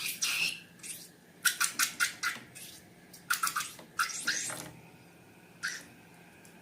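Slime being squeezed and worked by hand: quick clusters of short clicking, squelching pops, the busiest about halfway through, with a last single pop near the end.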